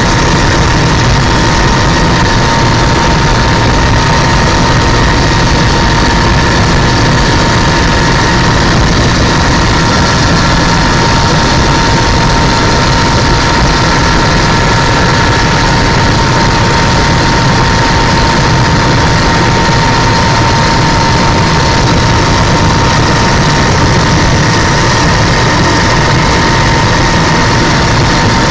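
Helicopter in flight: steady, loud engine and rotor noise with a constant high-pitched whine running over it, unchanging throughout.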